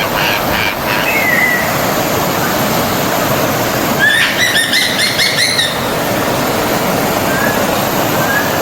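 Stream water rushing steadily, with birds calling over it: a single chirp about a second in, a quick run of repeated chirps about four seconds in, and a couple of faint chirps near the end.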